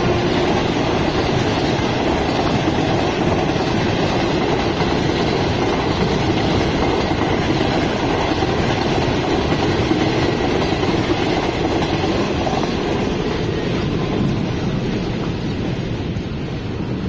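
Train running along the track: a steady, loud rumble and rattle of wheels on rail, easing a little near the end.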